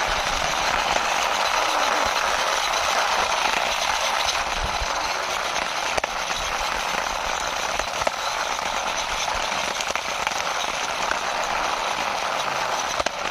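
Toy Airbus's wheels rolling along the ground as it is pushed by hand, a steady rolling noise with a few faint clicks.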